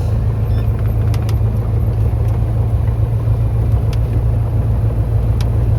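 Cessna 172 piston engine and propeller running with a steady, loud drone.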